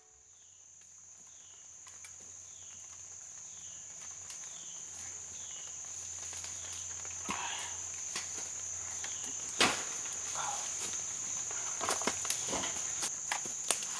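Insects, crickets by the sound, droning on a steady high pitch, fading up over the first seconds. A run of short falling chirps repeats about twice a second early on, and a few sharp knocks and rustles come in from about halfway.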